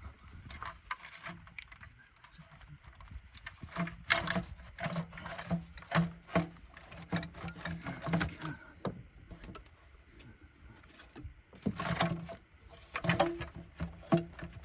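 Irregular clicks, taps and rattles of hands and tools working on wiring and plastic clips deep in a car's engine bay. A low hum comes and goes.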